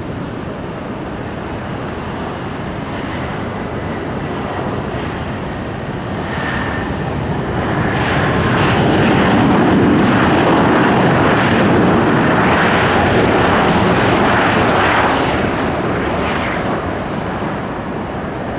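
Jet airliner engines passing by, growing louder from about six seconds in, holding a loud peak for several seconds, then fading.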